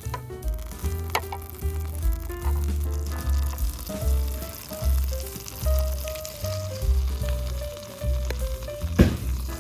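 Food sizzling and frying in a pan, under background music with a pulsing bass line and a melody of short held notes. A single sharp clack near the end.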